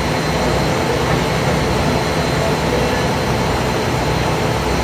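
Passenger ferry's engine running steadily under a loud, even rush of noise, heard on board.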